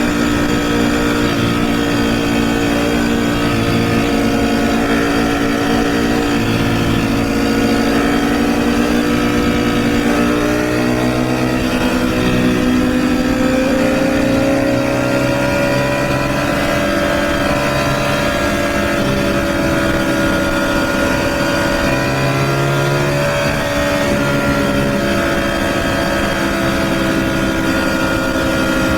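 Sport motorcycle engine running under way at steady road speed. Its note climbs gently around the middle and then holds, as the throttle is eased on and kept there.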